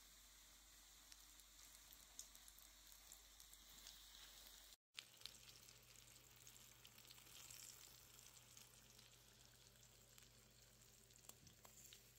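Faint sizzling and crackling of flour-coated northern pike pieces shallow-frying in hot oil in a pan, cut off for an instant a little before the middle.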